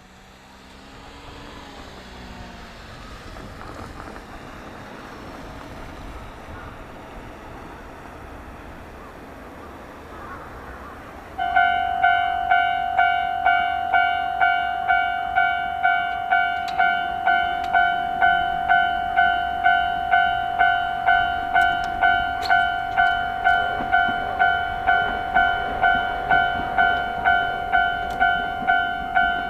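A railway rumble builds over the first ten seconds or so. About eleven seconds in, a Japanese level-crossing alarm starts, an electronic two-tone clang repeating about twice a second.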